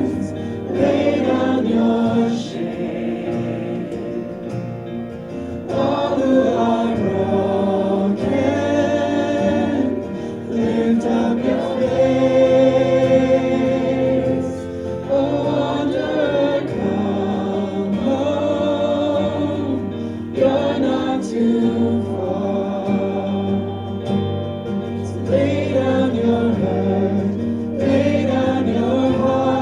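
A praise team and the audience singing a contemporary worship song together, with instrumental accompaniment.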